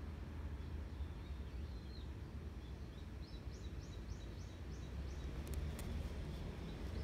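Outdoor ambience of small birds chirping over a steady low rumble, with a quick run of about seven repeated chirps about halfway through.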